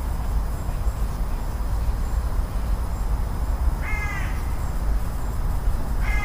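A bird calls twice, once about four seconds in and again near the end, over a steady low rumble.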